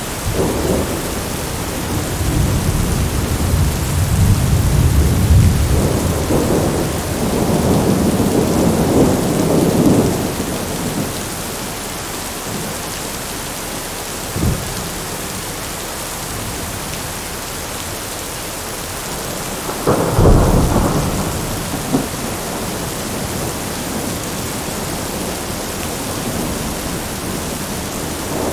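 Thunderstorm: steady rain with rolling thunder. A long low rumble runs through the first third, a brief crack comes about halfway through, and a sharper, louder clap with a short rumble follows about two-thirds in.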